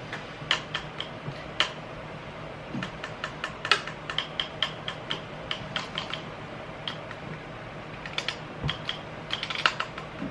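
Irregular light clicks and clacks of small hard objects being handled, coming in little clusters, over a steady low background hum.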